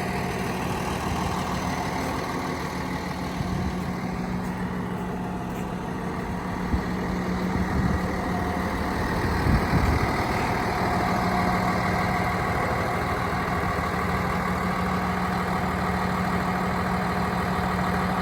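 Komatsu D85PX-18 bulldozer's diesel engine running steadily at idle, with a couple of brief knocks a little past the middle.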